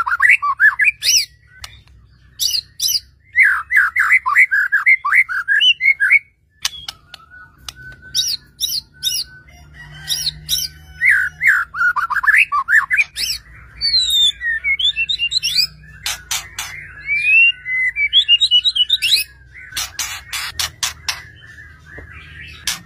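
White-rumped shama (murai batu) singing: phrases of rapid rising and falling whistled notes broken by sharp clicks and chattering calls, with the clicks coming thick in the second half.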